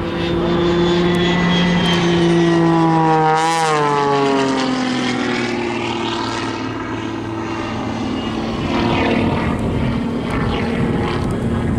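Jet-augmented Pitts aerobatic biplane at full thrust, its piston engine and propeller running together with its jet engines. The engine note drops sharply in pitch as the aircraft passes about three and a half seconds in, then holds steady at the lower pitch.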